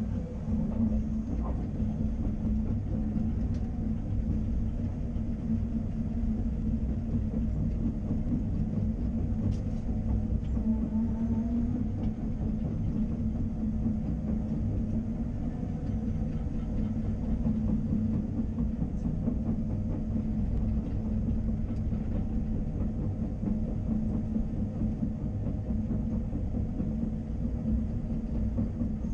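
Caterpillar 330 excavator's diesel engine running steadily while working, a continuous machine noise with a strong low hum that holds level throughout.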